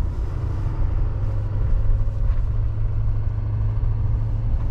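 Steady low rumble of a 2020 Chevy Silverado 3500 dually's diesel engine and tyres while driving, heard from inside the cab.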